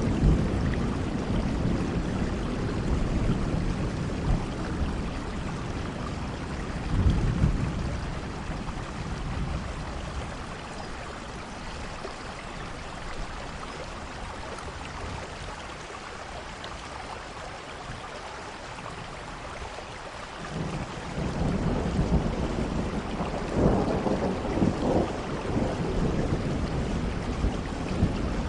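Steady rain with rolling thunder: a low rumble that dies away over the first twenty seconds or so, then a fresh rumble builds about three-quarters of the way through and swells near the end.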